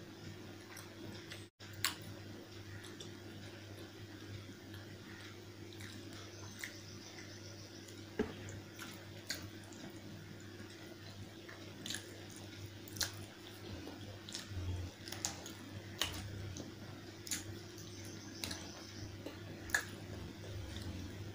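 Close-miked wet eating sounds of chicken curry and rice: scattered sharp mouth clicks, smacks and chewing, over a steady low hum.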